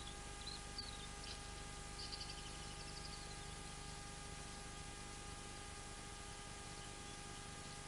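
Faint bird chirps, a few short ones in the first second and a brief trill about two seconds in, over steady microphone hiss and electrical hum.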